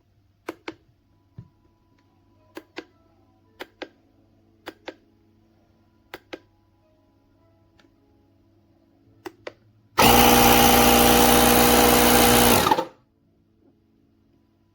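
Six pairs of sharp clicks, then a small electric air compressor runs steadily for about three seconds with a buzzing hum and stops abruptly.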